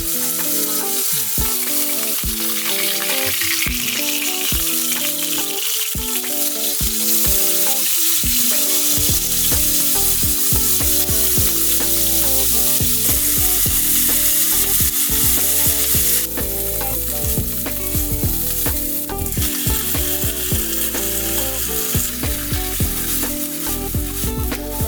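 Shirataki stir-fry sizzling hard in a hot frying pan while it is stirred.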